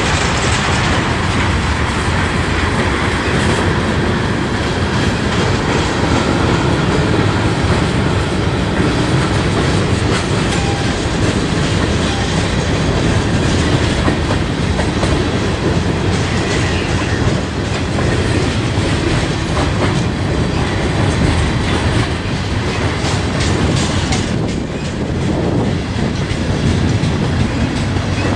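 A freight train's cars rolling past close by: the steady rumble of tank cars and flatcars on the rails, with the wheels clicking over rail joints.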